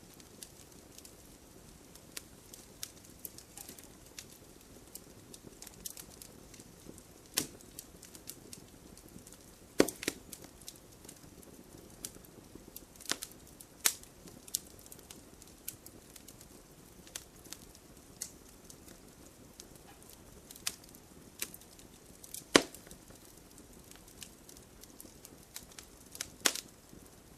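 Wood fire in a fireplace crackling: a soft steady hiss with irregular sharp pops and snaps, a few of them much louder than the rest.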